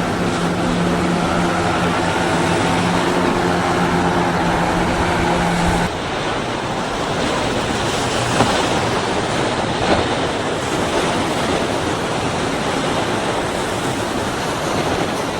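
A powerboat's engine running at a steady pitch over wind and surf noise, cutting off abruptly about six seconds in. After that only the hiss of wind on the microphone and waves remain.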